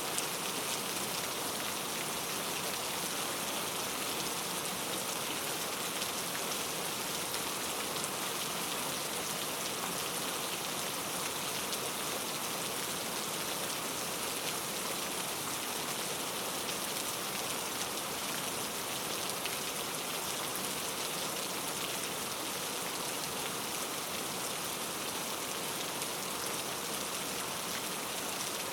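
Steady rain falling, an even hiss with many fine drop ticks on a surface, no thunder.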